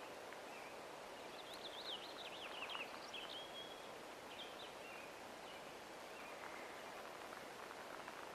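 Quiet forest ambience with a steady hiss, and a small bird singing a quick run of high chirps about a second and a half in, with a few fainter chirps later.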